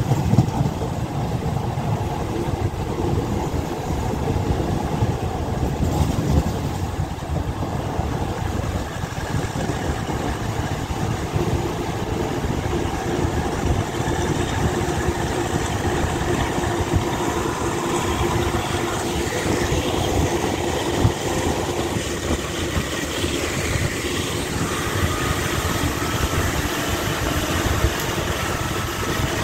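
Passenger train running along the track, heard from an open carriage window: a steady rumble of wheels on rails.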